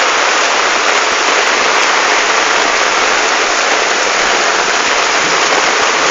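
Heavy downpour: a steady, loud rush of rain and running water.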